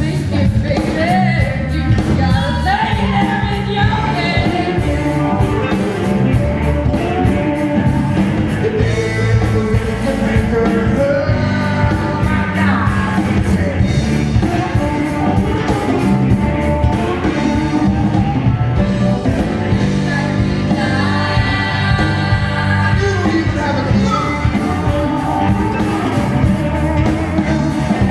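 Live rock band playing, with sung vocals over guitar, bass and drums, heard in a large room.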